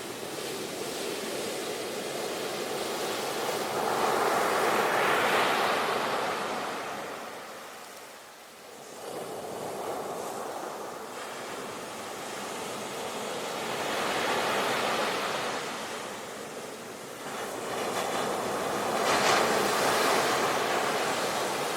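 Sea waves breaking and washing onto a beach: a steady rush of surf that swells and ebbs in slow surges, three of them, the last the loudest.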